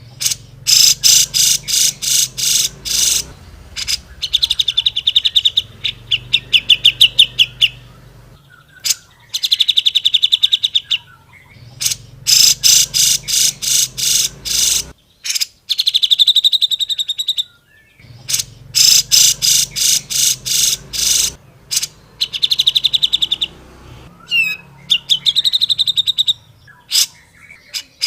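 Cucak jenggot (grey-cheeked bulbul) singing loudly in repeated phrases. Each phrase is a run of harsh chattering notes, about four a second, followed by a fast buzzy trill, with short pauses between phrases.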